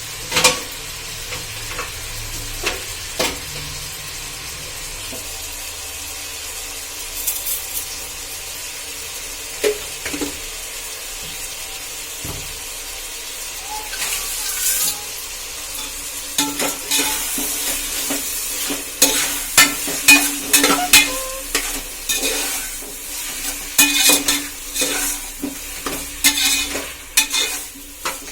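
Food sizzling in a pan while a spoon stirs it, scraping and clinking against the pan. The scraping grows much more frequent about halfway through.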